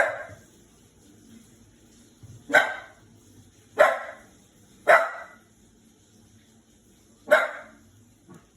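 Shiba Inu puppy barking in alarm at a washing machine: five sharp single barks, unevenly spaced, the first right at the start, three about a second apart in the middle, one more near the end, then a faint short one.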